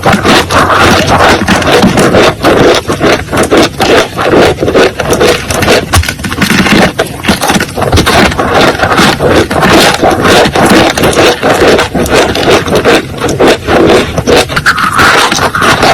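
Continuous loud scraping and rubbing, full of small crackling clicks, going on without a break.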